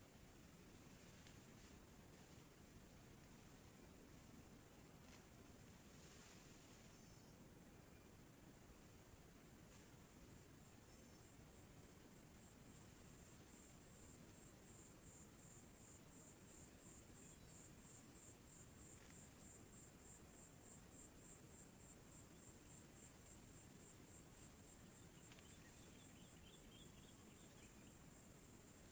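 Insects, crickets by the sound, trilling in a steady, high-pitched chorus with a fine pulsing texture. A few faint chirps come through, once near the start and again near the end.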